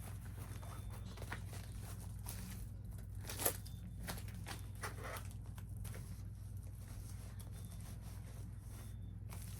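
Rustling and handling of small objects, with scattered light clicks and one sharper click about three and a half seconds in, over a steady low hum.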